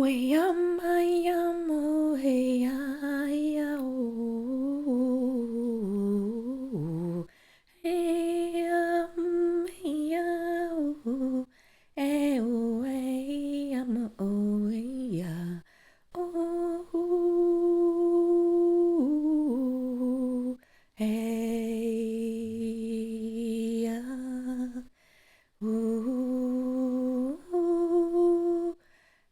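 A woman's voice toning wordlessly in a "light language" sound transmission: long held notes that slide and waver in pitch, broken by short pauses for breath every few seconds.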